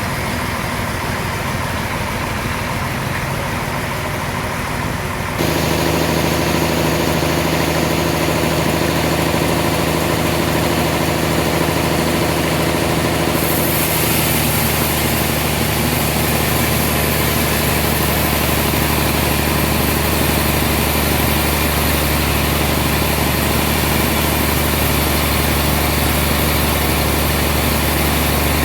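Sawmill machinery running steadily with an engine-like hum. It steps up louder about five seconds in and turns brighter and hissier around halfway through.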